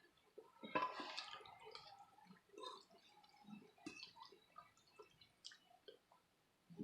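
Close-miked eating of creamy shrimp alfredo: soft wet chewing, squelching and mouth clicks, with a louder wet cluster about a second in.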